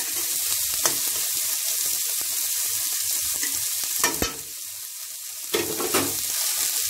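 Sliced onions, green peas and dried red chillies sizzling in oil in a kadai, sautéing until the onions turn light brown. A spatula stirs and scrapes the pan, with a few sharp scrapes against the metal, one about four seconds in.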